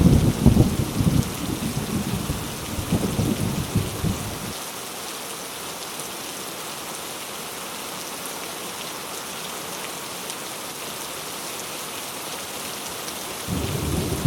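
Heavy rain falling steadily with thunder. A rumble of thunder dies away about four seconds in, and another peal of thunder starts just before the end.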